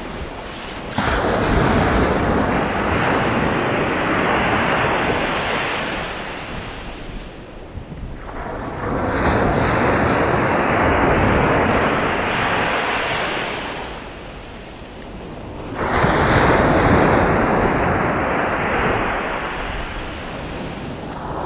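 Sea waves breaking on a beach, three in turn about seven seconds apart: each comes in with a sudden rush, then washes out and fades.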